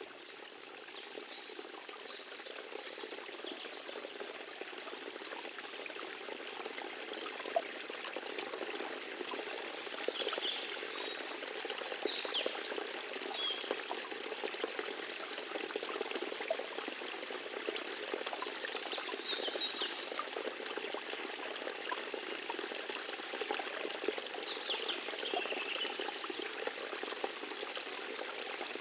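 Forest stream trickling and splashing steadily, growing louder over the first several seconds, with a few short high chirps above the water now and then.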